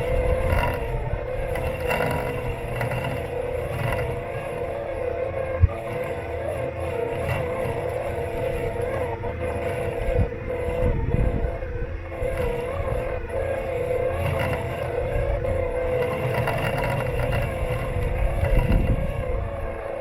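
Robot lawn mower's electric motors running with a steady whine over a low rumble as it drives and cuts. A single sharp knock about five and a half seconds in.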